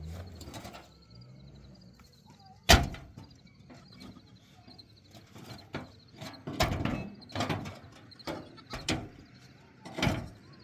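A series of sharp knocks and thumps at irregular intervals, the loudest about three seconds in and several more in quick succession in the second half.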